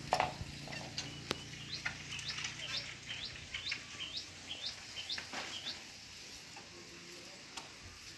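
A songbird singing a run of short, quick notes that each sweep upward, about three a second, fading after about six seconds. A sharp knock sounds just after the start.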